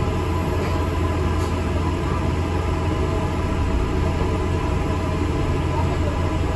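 ADL Enviro 400 MMC double-decker bus heard from inside the passenger deck: a steady low rumble of its engine and running gear, even throughout.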